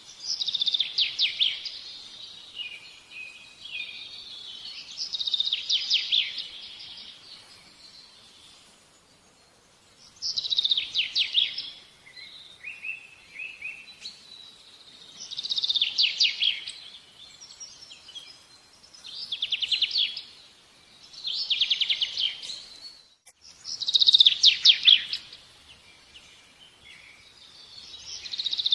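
A songbird singing: about eight bursts of rapid, high trilled song a few seconds apart, with softer short chirps between them.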